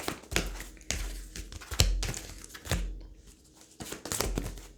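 Tarot cards being handled on a table: a run of short rustles and light taps about a second apart, with soft low thumps.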